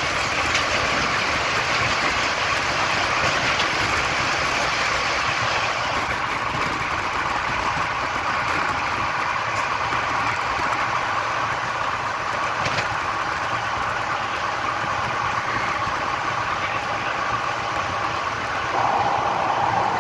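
Passenger train running at speed, heard from an open coach doorway: steady wheel rumble and wind noise. A goods train of open wagons passes close alongside on the next track, and its noise ends a few seconds in.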